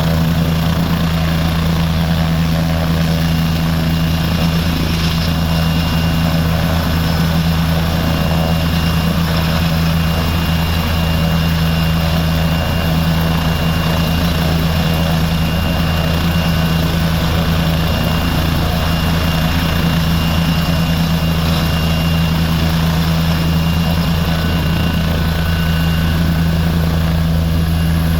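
Air ambulance helicopter (Leonardo AW169) running steadily, with a deep, even rotor drone and a thin high turbine whine above it.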